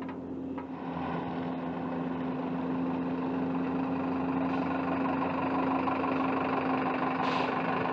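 Engine of an aircraft pushback tug running steadily, a constant hum that grows a little louder about a second in.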